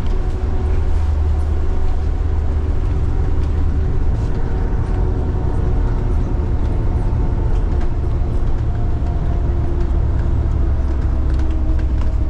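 City bus running, heard from inside the cabin: a steady deep engine rumble with a faint whine that drifts slowly in pitch, and small rattles.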